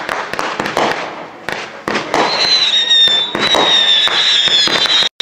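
Fireworks display: a rapid run of sharp bangs and crackles with a high, wavering whistle over them. The bangs thin out about a second in, then build again with the whistle, and the sound cuts off suddenly for a moment near the end.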